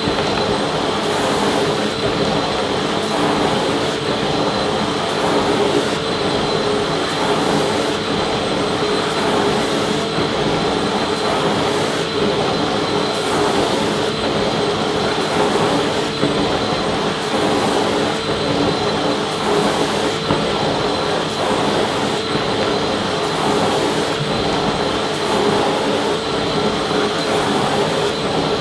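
Vacuum cleaner motor running steadily: an even rushing noise with a steady whine over it.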